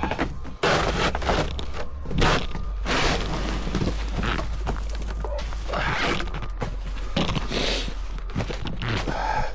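Snow shovel scraping and striking packed snow, with irregular scrapes and thuds.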